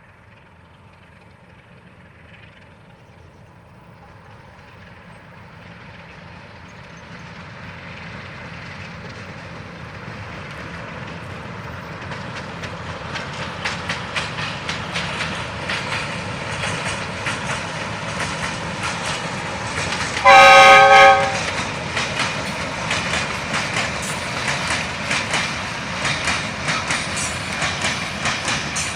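Freight train approaching and passing, its sound building steadily louder and then turning to a rhythmic clatter of wheels over rail joints. About two-thirds of the way through, the locomotive gives one short, loud horn blast lasting about a second.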